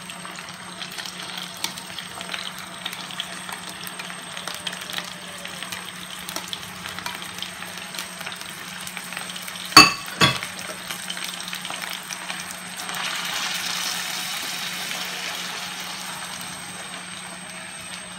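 Chicken strips and mixed seafood (mussels, shrimp and calamari rings) sizzling in olive oil in a paella pan. There are two sharp knocks about ten seconds in, and the sizzle gets louder a few seconds later.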